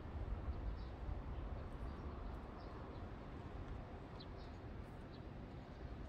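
Quiet outdoor ambience: a steady low rumble with a few short, high bird chirps scattered through it.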